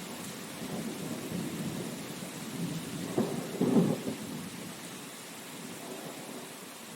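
Steady rain hiss under a low rumble of thunder that crackles loudest a little past halfway, then dies away.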